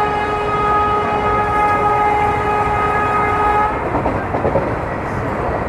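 Train horn held on one long steady note over the rumble of the moving train, cutting off about three and a half seconds in; the rumble and rattle of the running train carry on after it.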